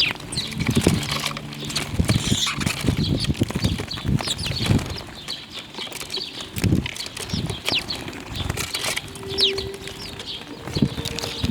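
Birds calling with short chirps throughout, over many soft flutters and taps such as wings flapping and pecking at feed.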